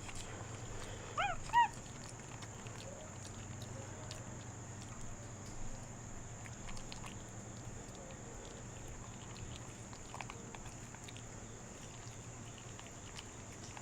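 An animal gives two short, high-pitched yelps in quick succession about a second in. Each call rises and falls in pitch, and after them only faint background remains.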